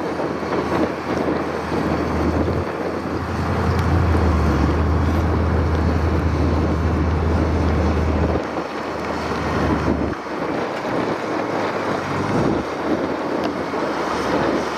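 Wind noise on the microphone: a steady rushing with a heavy low rumble that swells and drops away in gusts.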